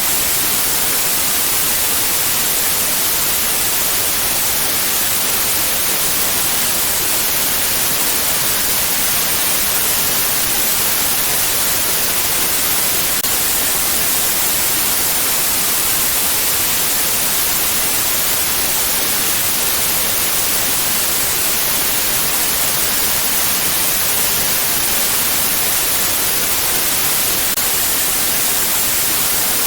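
Steady white noise, an even hiss with most of its energy in the high treble, holding the same level throughout.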